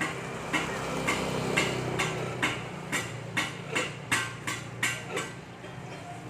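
Hammer tapping on metal during a submersible pump repair, about a dozen strikes at roughly two a second that come slightly faster toward the end, over a steady low hum.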